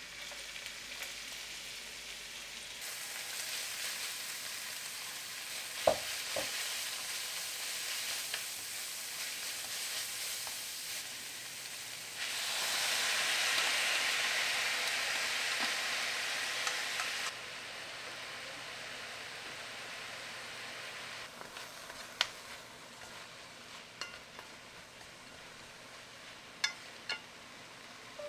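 Julienned potatoes sizzling as they are stir-fried in a frying pan, the hiss growing louder for a few seconds near the middle, with occasional sharp taps of a utensil against the pan.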